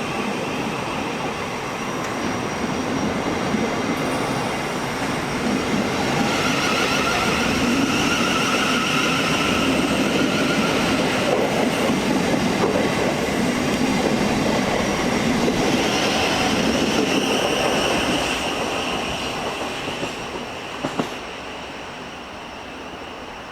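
Electric multiple-unit train passing on the rails with a high whine, growing louder over the first few seconds and dying away near the end, with a couple of sharp clicks shortly before it fades out.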